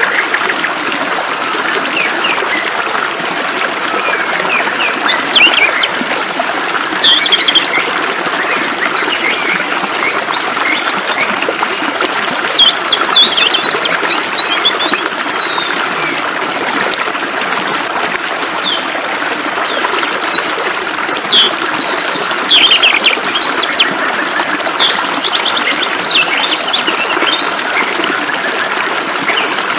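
Flowing water hissing steadily, with small birds chirping and twittering over it in clusters of quick rising and falling calls, several times.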